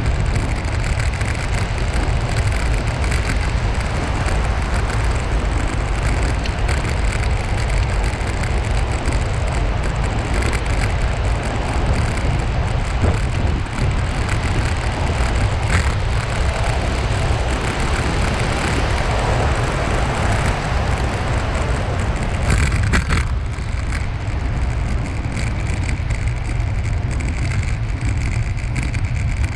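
Wind rushing over the microphone with tyre noise on a bicycle ride along a paved path: a loud, steady rumble with a couple of brief clicks.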